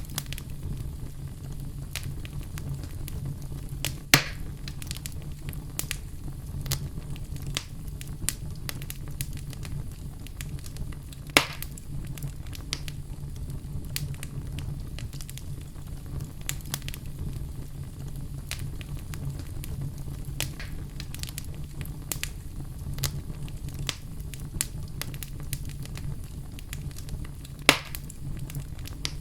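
Campfire burning with a steady low rumble and frequent sharp crackles and pops of the burning wood, three louder pops about 4, 11 and 27 seconds in.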